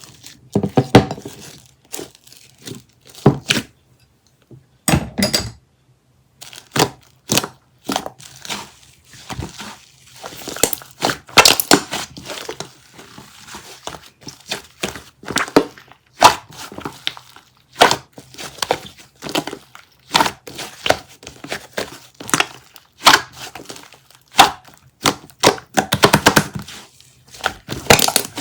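Irregular crinkling and crackling handling noises with scattered sharp clicks and knocks, as of packaging or paper being handled.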